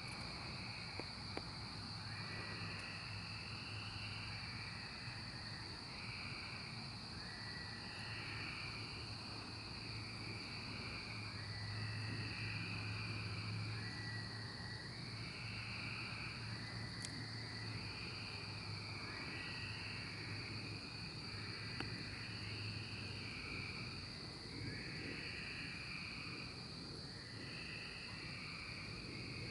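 Chorus of Brood XIX 13-year periodical cicadas: a steady high-pitched drone with overlapping calls repeating about every two seconds. A steady low hum runs underneath.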